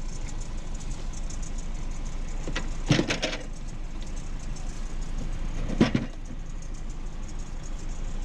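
Two loud clattering knocks about three seconds apart, as curbside junk is handled, over the steady low hum of an idling car engine.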